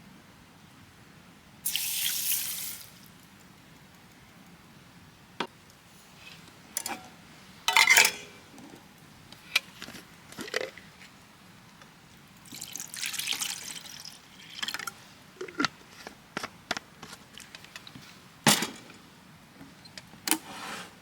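Liquid poured briefly twice, each pour about a second long, with scattered clicks and knocks in between.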